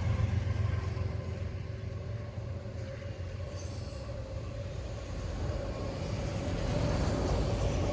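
Short CSX freight train, led by GE diesel locomotives and hauling autorack cars, passing a grade crossing with a steady low rumble. A faint steady high tone grows louder in the second half.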